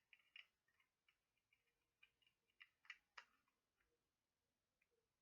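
Fingernails tapping and clicking on a Ted Baker lip balm container. The taps are light and come in quick, irregular clusters of several a second, with a few sharper ones about three seconds in, then thin out near the end.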